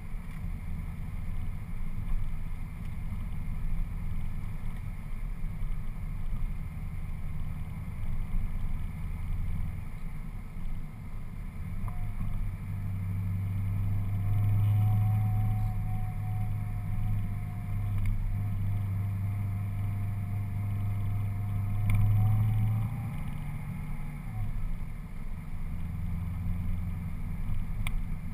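Cadillac CTS-V coupe's supercharged 6.2-litre V8 with an aftermarket Stainless Works and Borla exhaust, heard from inside the cabin while driving at a steady throttle: a low exhaust drone. The drone grows louder for about ten seconds in the middle, with a faint steady whine alongside it.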